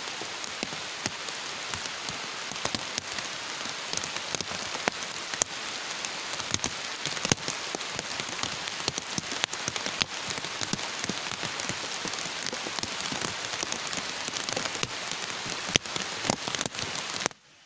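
Heavy rain falling, a dense steady hiss full of sharp individual drop hits, which cuts off abruptly near the end.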